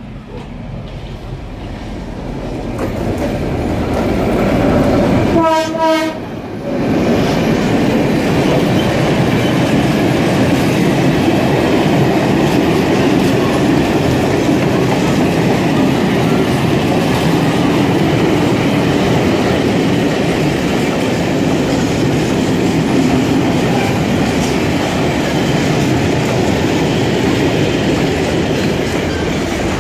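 Serbia Cargo class 661 diesel locomotive approaching with its sound building up. It gives one short horn blast about five and a half seconds in. A long freight train then rolls past with a steady, loud noise of wagon wheels on the track.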